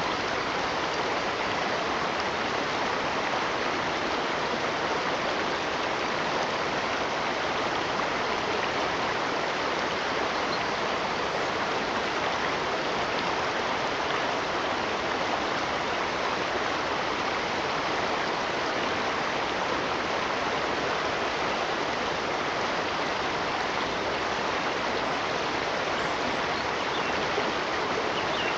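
Running water, as from a stream, rushing steadily and evenly.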